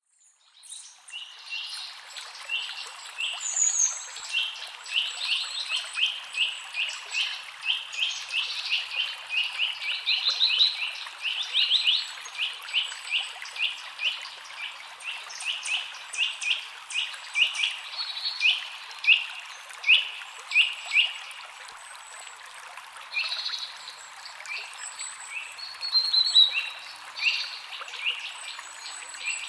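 Songbirds chirping: a dense run of short, high chirps at about two a second that thins out after about 21 seconds, with a few quick trills, over a steady hiss.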